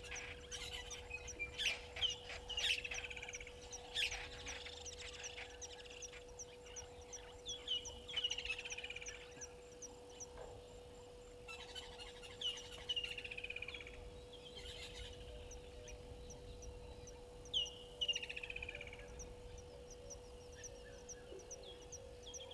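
Birds calling in the bush: a descending trilled phrase repeats every four to five seconds over a run of quick, high chirps, with a faint steady hum underneath.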